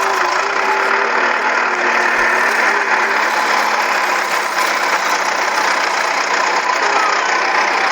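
Toy vehicle running with a steady, loud buzzing engine-like sound.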